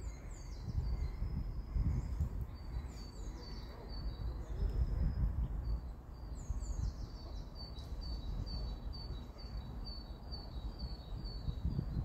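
Birds calling in woodland: a few high, falling notes, then a run of short, high, repeated notes about two a second, over a steady low rumble.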